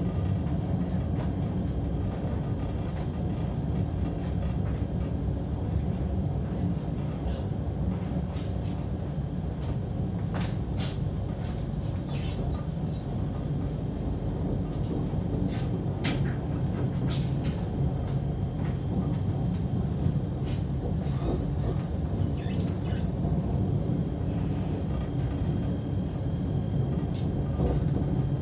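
KTM ETS electric train running, heard from inside the passenger car: a steady low rumble of wheels on track, with scattered sharp clicks, most of them around the middle.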